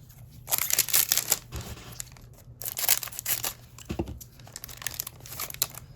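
A trading card pack wrapper being torn open and crinkled by hand: two loud tearing, rustling bursts, then lighter crinkling as the cards are pulled out.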